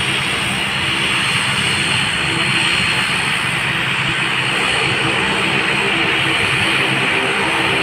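Airplane engines running loud and steady, a constant rush of engine noise over a low drone.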